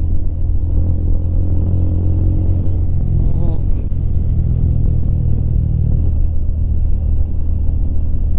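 Rusi Classic 250 motorcycle running steadily on the move, with a continuous low rumble of wind and road.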